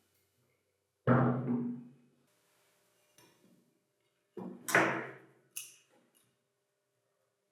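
Sharp strikes on metal parts, each ringing briefly as it dies away: one blow about a second in, two faint taps, a quick double strike near the middle and a lighter knock after it.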